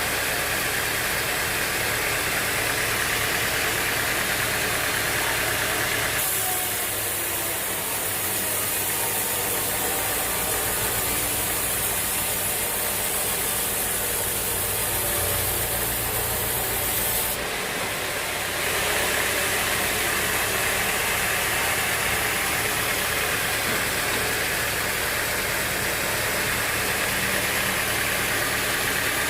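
Sawmill machinery running steadily, an engine-like drone with noisy hiss. The sound changes abruptly about six seconds in to a deeper hum and switches back about twelve seconds later.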